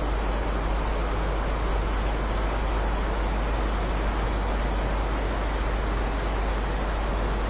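Steady heavy rainfall: a dense, even hiss over a constant low rumble, without breaks or separate drops standing out.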